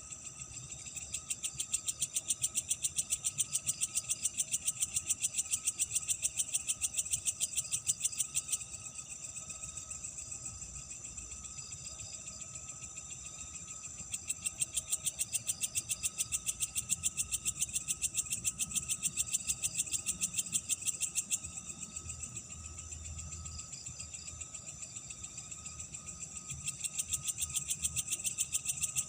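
Night insects calling: a fast, buzzy pulsed call comes in three bouts of about seven seconds each, over a steady thin high chirring that runs on underneath.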